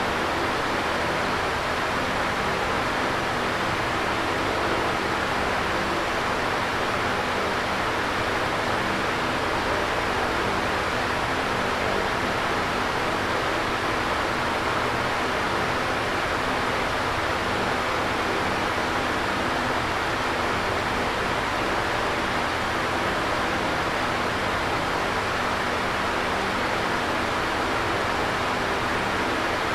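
Electric fan running steadily: an even whooshing rush of moving air with a faint low hum under it, unchanging throughout.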